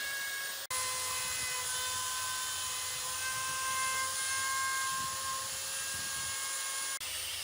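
A power tool running steadily with a high-pitched whine over a hissing rush, broken by two abrupt momentary dropouts, about a second in and near the end.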